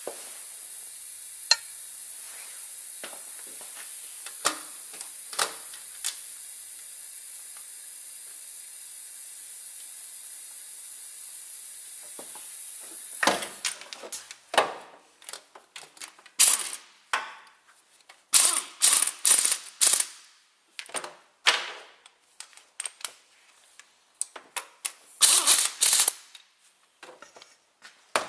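Hand ratchet wrench working on engine-mount studs: bursts of ratcheting clicks and metal tool knocks in the second half. Before that, a steady high hiss with a few clicks runs for about half the time and then cuts off.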